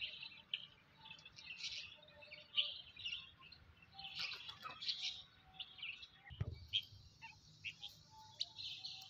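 Small birds chirping in quick, high, repeated calls, with a single low thump about six seconds in.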